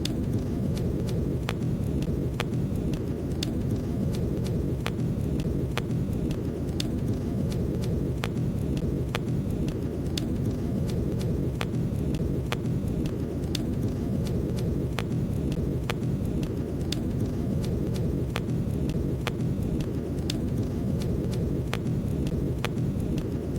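Wood fire burning in a fireplace: a steady low rumble of flames with sharp crackles and pops at irregular intervals, roughly one a second.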